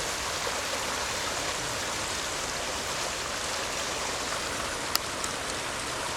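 Shallow river rapids and a small waterfall rushing steadily over rocks. A single sharp click about five seconds in.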